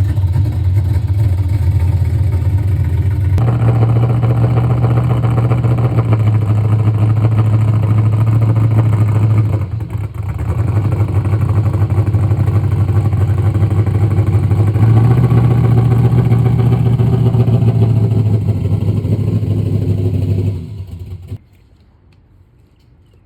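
Vehicle engine and road noise heard while driving: a steady low drone that shifts pitch abruptly a few times. It drops away to quiet near the end.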